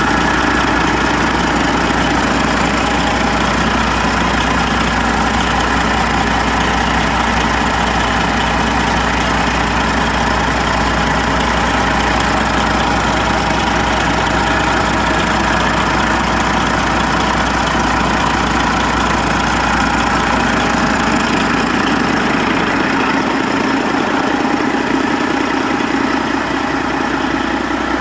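Detroit Diesel Series 60 12.7-litre inline-six diesel engine idling steadily. Its deepest rumble thins out a little near the end.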